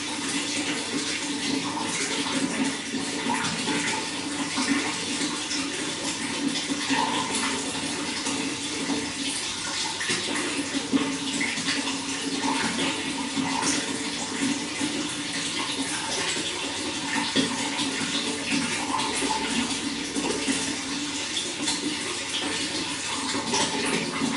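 Running water flowing steadily: a continuous rush with many small splashes through it.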